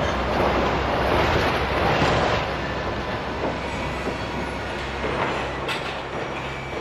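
Heavy machinery rumbling with a steady low hum. A rushing noise swells over the first couple of seconds and then eases, and a few faint clanks or squeals come through.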